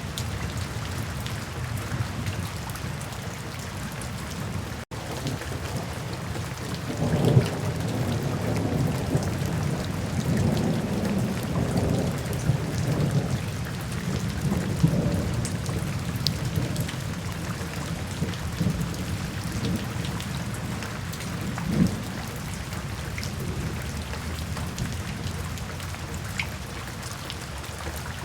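Steady rain falling, with a long low rumble of thunder that swells about seven seconds in and rolls away over the next several seconds.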